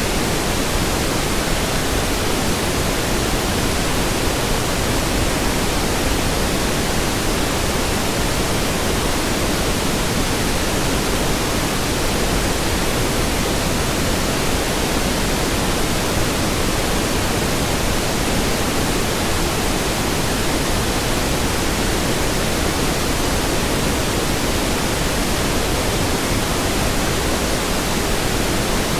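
Steady pink noise: an even, hiss-like rush across the whole range, unchanging.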